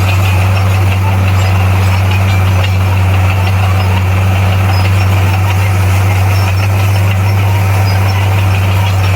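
Heavy earthmoving machine's diesel engine running steadily, a loud low drone that holds one pitch.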